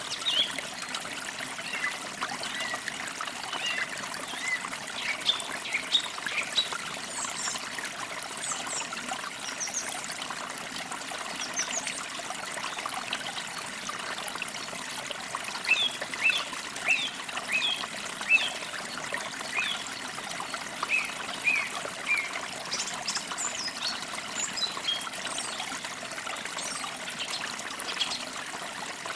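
A trickling stream running steadily under songbirds chirping and trilling, with several bird calls coming in clusters.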